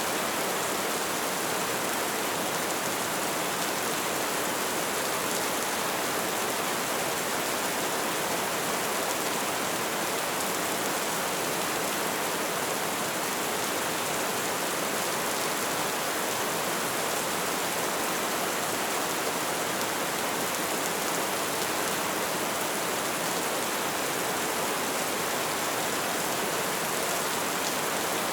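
Light rain falling in a steady, even patter.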